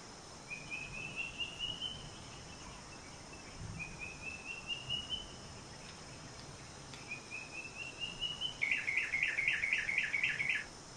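A bird singing: three short phrases of rapid notes, each climbing in pitch, then near the end a louder, fast trill of about four notes a second lasting two seconds, over a steady hiss.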